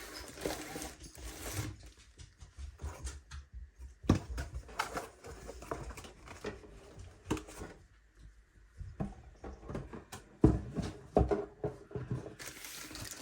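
A cardboard kit box being opened and handled: scattered taps, rubs and light knocks of cardboard and packaging, with sharper knocks about four seconds in and twice more around ten to eleven seconds in.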